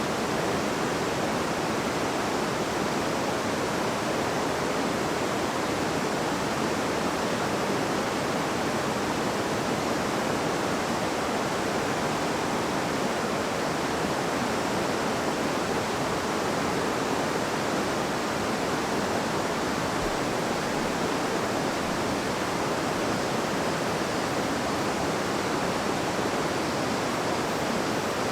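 A river's water flowing and babbling over stones: a steady, even rush that does not change.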